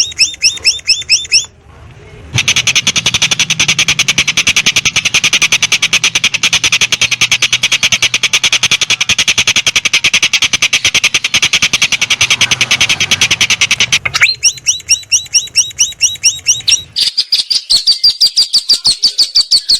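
Recorded songbird song with fast trills. First comes about a second and a half of rapid repeated chirps, then a short pause. Then a dense, very fast trill runs for about twelve seconds and gives way to quick runs of repeated down-slurred notes.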